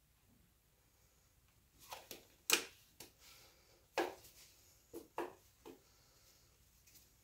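A run of sharp clicks and knocks from paint bottles and containers being handled on a worktable, about eight in four seconds, the loudest about two and a half seconds in.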